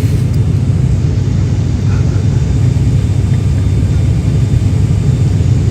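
Steady low engine drone heard inside a passenger aircraft's cabin in flight.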